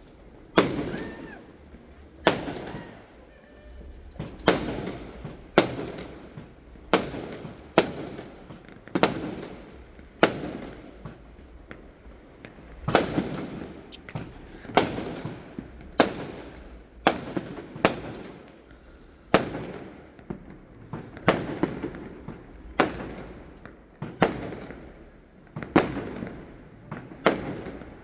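Aerial fireworks going off in a steady barrage: about twenty sharp bangs, one every second or so, each trailing off into a rumbling echo.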